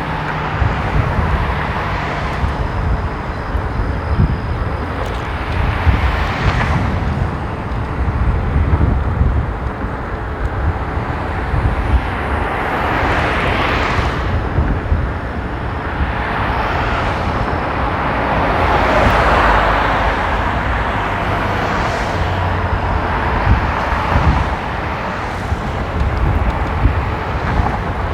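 Road traffic passing on wet pavement: several vehicles go by one after another, each a swelling and fading tyre hiss, over a steady low rumble of wind and road noise as the scooter rides along.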